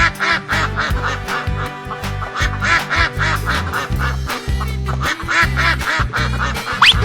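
Cartoon duck quacks, in quick clusters that come and go, over upbeat background music with a steady bass beat.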